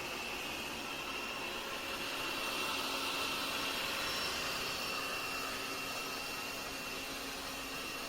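Laresar Clean L6 Nex robot vacuum running: a steady hiss with a high whine over it, swelling slightly about three seconds in.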